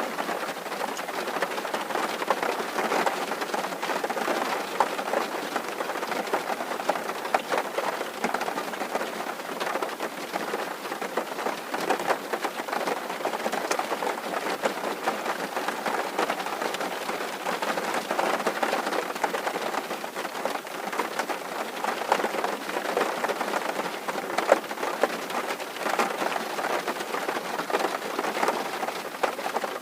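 Steady rain drumming on a tin roof, a dense patter of many small drop impacts.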